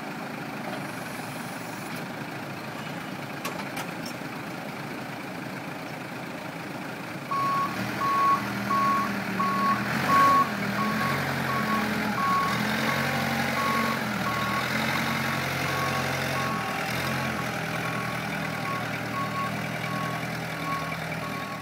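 1984 Case 580E loader backhoe's engine running steadily. About a third of the way in it speeds up, with its pitch rising and dipping under load, and a reversing alarm starts beeping about one and a half times a second.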